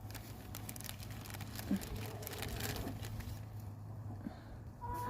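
Chickens pecking at live crickets: quick irregular taps and rustling, with a short cluck near the end.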